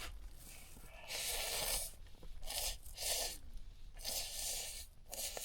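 A person eating ramen noodles with kimchi close to the microphone: about five short, noisy slurping and chewing sounds, each under a second.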